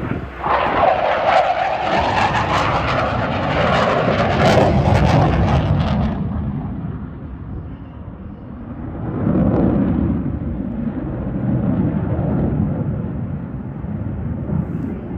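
Fixed-wing aircraft flying past: loud engine noise that starts about half a second in, holds for about five seconds, then falls away, with a second, duller swell around nine to ten seconds in.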